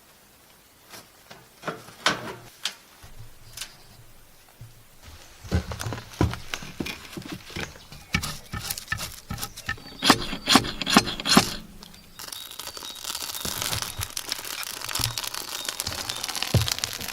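Scattered clicks and knocks of wooden pallet boards being handled, which grow busier and louder about a third of the way in. In the last few seconds they give way to a steady rustling hiss.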